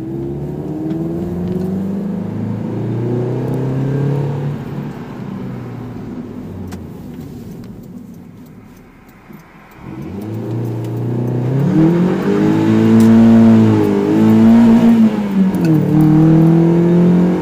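Mazda MX-5's four-cylinder engine heard from inside the cabin while driving: it pulls with a gently rising note, eases off and goes quieter about halfway, then accelerates hard from about ten seconds in, the pitch climbing and dropping back twice at gear changes.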